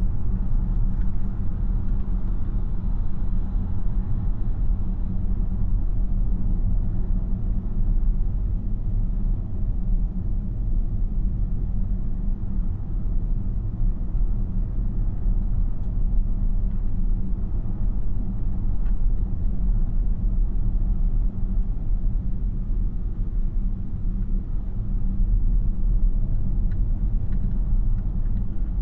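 Steady, low road and tyre rumble inside the cabin of a moving 2026 Tesla Model Y AWD electric car.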